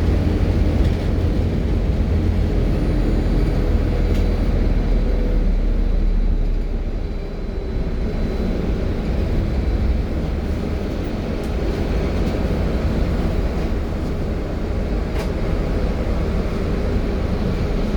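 Inside a Belkommunmash BKM 32100D trolleybus on the move: a steady low rumble of the running gear and tyres on the road.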